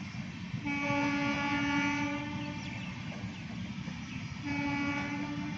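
Locomotive horn of an Indian Railways superfast passenger train sounding two held blasts, the first about two seconds long and the second starting near the end, over the train's steady rumble.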